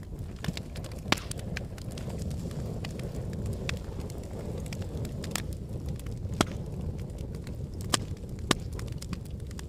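Volcanic eruption: a steady low rumble with irregular sharp cracks and snaps, about a dozen, the loudest about a second in and three more in the second half.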